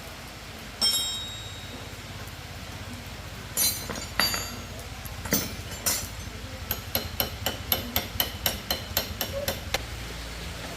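Hammer striking metal: one ringing blow about a second in, a few spaced blows, then a quick steady run of about four to five blows a second that stops shortly before the end. The hammering is driving a motorcycle wheel bearing.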